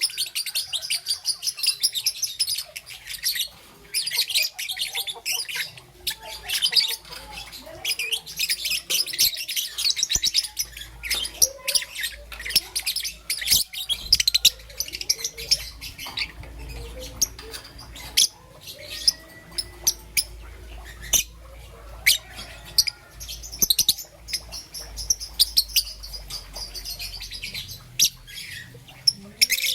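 Young peach-faced lovebird chirping: runs of rapid, high twittering lasting a few seconds each, with sharp single chirps in between.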